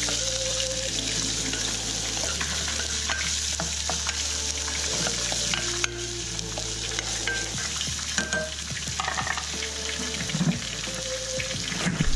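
Chopped onion and garlic sizzling in hot oil in a small saucepan, stirred now and then, with small scrapes and clicks of the utensil against the pan. A crappie fillet frying in a skillet alongside adds to the steady sizzle.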